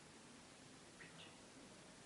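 Near silence with two faint, short, high squeaks about a second in: a dog's soft whimper.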